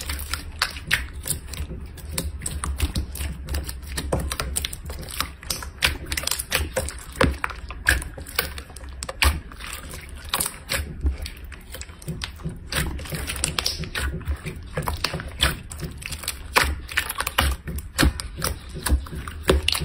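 Slime being squeezed and worked by hand, giving rapid, irregular clicking and popping.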